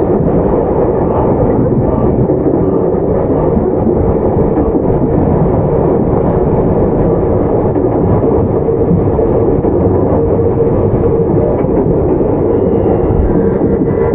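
Tokyu 9020-series electric commuter train running at steady speed, heard from inside the car: continuous noise of wheels and running gear on the rails with a steady hum.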